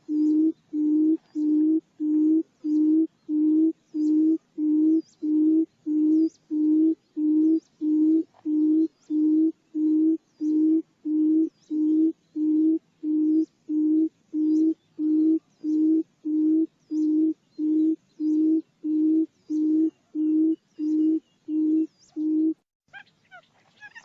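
Buttonquail's lure call, played as a trapping decoy: a long, even series of short, low hoots, about one and a half a second, all on one pitch. The hoots stop shortly before the end, leaving faint higher chirps.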